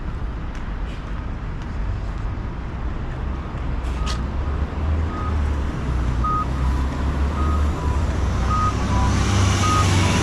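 Low engine rumble of street traffic. From about four seconds in, a vehicle's reversing alarm beeps about once a second, soon joined by a second, slightly lower beep alternating with it. Near the end a passing vehicle's tyre hiss grows louder.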